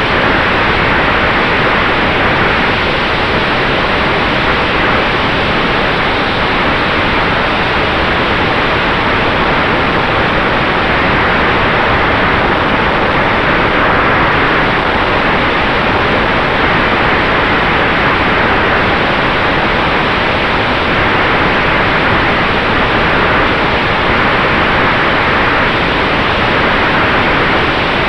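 Steady, loud rush of airflow and propeller noise on an electric airplane (Sonex Xenos), with a faint constant high whine underneath and no change in level.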